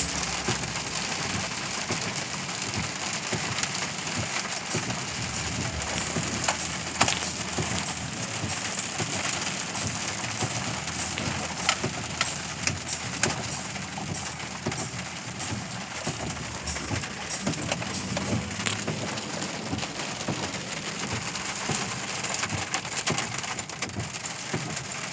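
Steady rain from a storm, falling hard, with scattered sharp taps of drops striking nearby surfaces.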